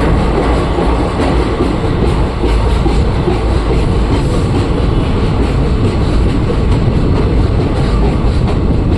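Train running on the rails: a loud, steady rumble with faint clicks from the wheels.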